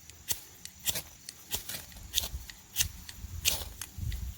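A fire-starting striker scraped again and again to throw sparks into a dry bird's-nest tinder bundle: about six short, sharp scrapes, roughly one every half second or so.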